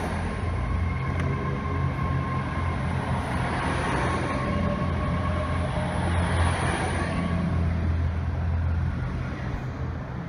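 GWR passenger train running past on diesel power: a steady low engine hum with wheel and rail noise, which eases off near the end as the train clears the platform.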